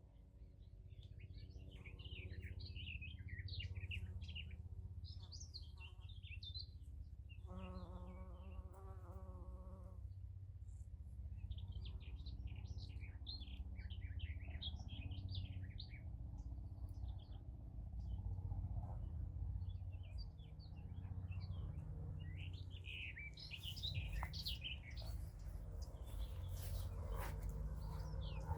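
Songbirds singing in repeated bursts of quick chirping phrases over a steady low rumble. About a quarter of the way in, a brief, steady pitched hum with several overtones lasts about two seconds.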